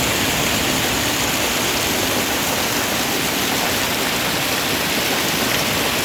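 Rain falling steadily: a loud, even hiss with no single drops or breaks standing out.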